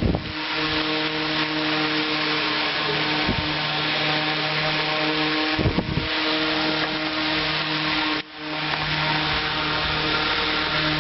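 Coronado model HW23A-1003 10-inch oscillating table fan, a Bersted-made fan from the 1960s, running with a steady motor hum and the rush of air off its blades. It runs smoothly, with a few short knocks along the way.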